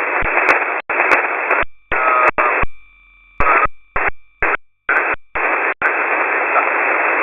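Shortwave receiver hiss on an empty voice channel, held to a narrow telephone-like band. In the middle it cuts out and back in abruptly several times, leaving brief gaps with a faint steady tone.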